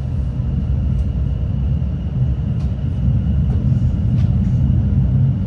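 Class 701 electric multiple unit running, heard from inside the carriage: a steady low rumble that grows louder over the first second, with a few faint ticks.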